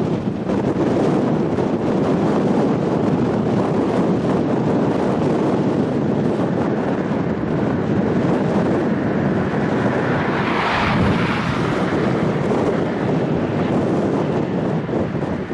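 Wind buffeting the microphone over the steady noise of a turboprop airliner's engines; the sound swells and brightens for a couple of seconds about ten seconds in.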